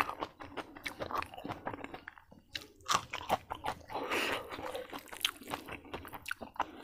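Close-up chewing of a mouthful of food: irregular wet crunching and crackling, with no steady rhythm.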